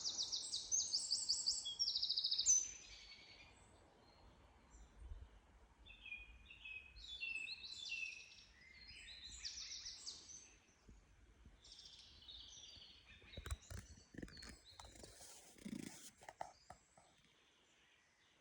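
Songbirds singing in woodland: a loud run of quick, repeated high phrases in the first couple of seconds, then further, fainter phrases. Near the end come a few knocks and some rustling.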